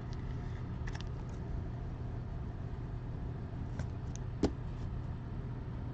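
Steady low background hum with a few faint short clicks and ticks from trading cards being handled, the loudest click about four and a half seconds in.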